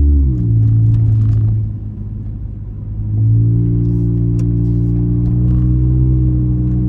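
Straight-piped 2004 Honda Accord 2.4L four-cylinder exhaust droning. Its pitch drops just after the start and turns quieter and rougher for a second or so as the throttle comes off, then a steady drone comes back about three seconds in and creeps slightly higher.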